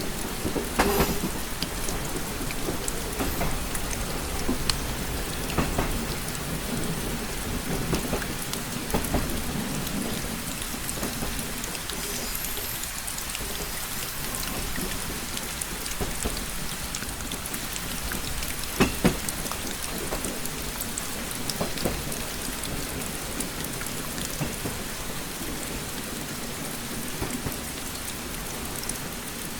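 Steady rain tapping on a window glass, with many scattered sharp drop ticks over a low, continuous rumble.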